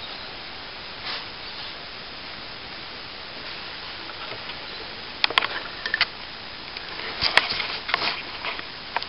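A steady hiss, then from about five seconds in a run of sharp clicks and short scrapes from broken plasterboard and ceiling debris being handled.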